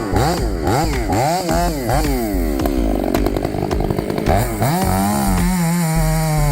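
Chainsaw engine revving up and down repeatedly as it cuts, then holding a steady high speed from about five seconds in.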